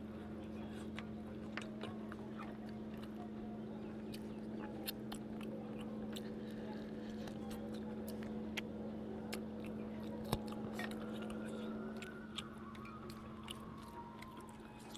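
A man chewing chicken and rice with his mouth open, with many sharp, irregular wet clicks and smacks over a steady low hum.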